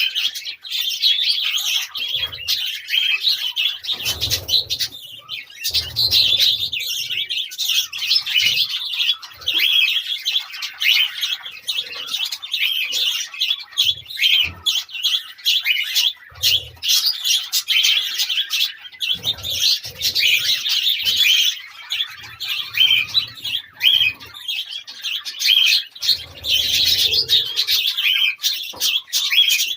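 Budgerigars chirping and chattering without a break, with occasional low soft thumps.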